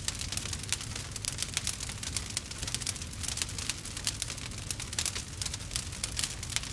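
Log fire crackling: dense, rapid pops and snaps over a low steady rumble.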